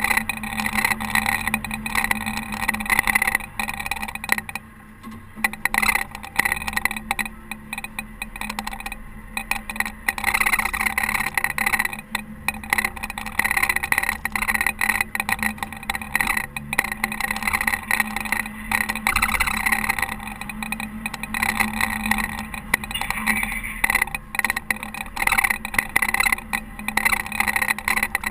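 Caterpillar TH330B telehandler's diesel engine running steadily while snowplowing, with a rough, fluctuating noise over a constant hum; it eases off briefly about four to six seconds in.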